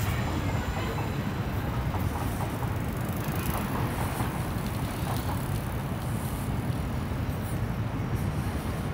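A train running over a railway viaduct: a steady low rumble.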